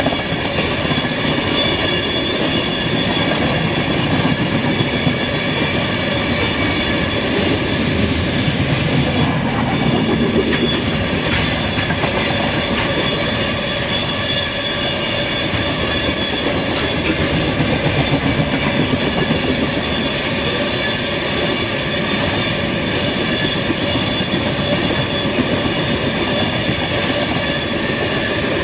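Norfolk Southern train rolling steadily past: a continuous rumble of wheels on rail with faint repeated clicks and several steady high tones over it.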